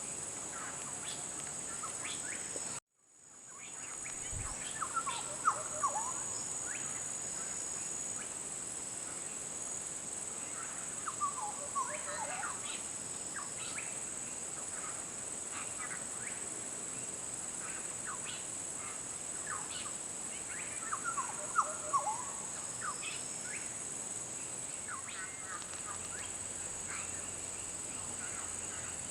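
Birds calling with short scattered chirps and a few quick runs of falling notes, over a steady high insect buzz. The sound drops out for a moment about three seconds in and fades back.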